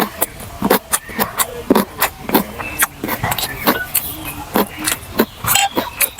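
Close-up eating sounds: wet chewing and lip smacks, an irregular run of about three or four sharp smacks a second.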